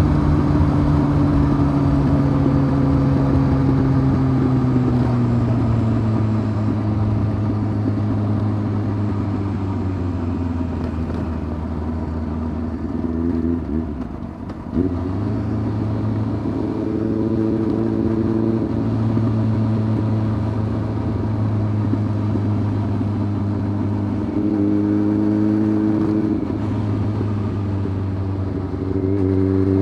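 Honda CBF 600's inline-four engine through a titanium sport exhaust, heard while riding. The engine note falls slowly as the bike slows, dips out briefly about halfway through, then holds steady with small swells, and rises again at the very end as it accelerates.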